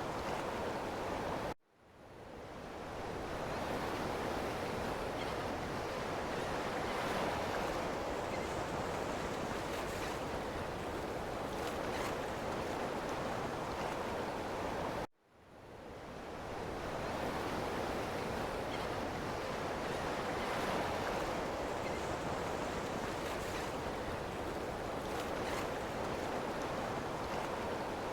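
Ocean waves washing on a shore in a steady, even rush. The sound cuts out suddenly twice, about thirteen seconds apart, and fades back in over a second or two each time.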